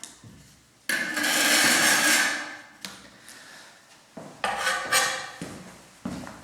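Hard scraping and clattering from tile work: a long scrape lasting about two seconds, then a few sharp knocks and rasps of tiles and tools being handled.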